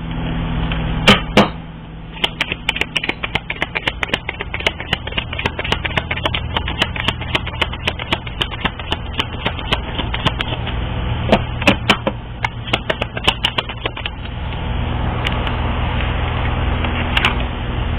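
Dense run of quick clicks and taps over a steady low hum, with a few louder knocks about a second in, around twelve seconds in and near the end; the clicks thin out after about fourteen seconds.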